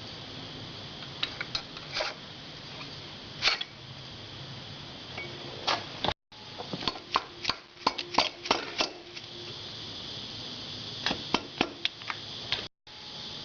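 Scattered light clicks and taps of tools and engine parts being handled during motorcycle top-end assembly, busiest in a cluster about halfway through, over a steady hiss; the sound cuts out completely twice, briefly.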